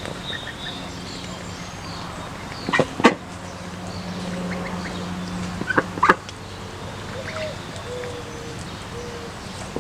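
Ducks calling: two short, sharp, loud calls about three and six seconds in, with faint high peeps between them. A steady low hum runs underneath and stops at the second call.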